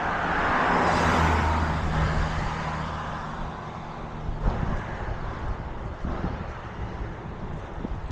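A motor vehicle drives past on the road, its engine hum and tyre noise loudest about a second in, then fading away.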